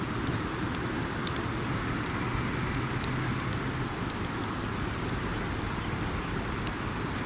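Wood campfire burning, with scattered sharp crackles and pops over a steady low rushing rumble; the loudest pop comes just over a second in.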